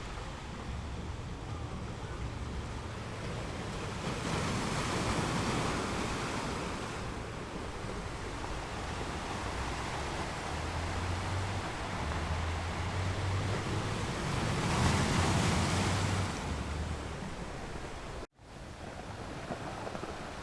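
Ocean surf with waves washing in. The noise swells louder twice, about four seconds in and again about fifteen seconds in, then cuts out abruptly for a moment near the end before resuming.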